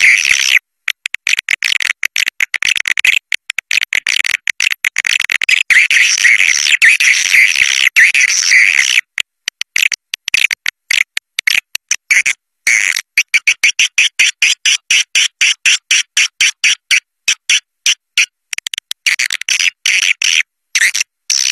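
Edible-nest swiftlet caller recording, the kind played to lure swiftlets to a nesting house: a dense, high, rapid twittering chirp. It is chopped by abrupt gaps of dead silence, and from about halfway through it breaks into many quick short bursts.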